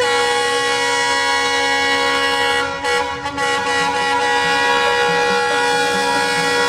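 Train's air horn sounding one long, steady blast that starts abruptly and wavers briefly about three seconds in.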